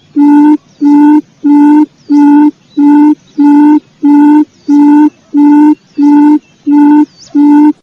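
Recorded quail lure call: a low hooting note repeated evenly about twice a second, each note held briefly at one steady pitch. Faint high chirps from other small birds sound between some of the notes.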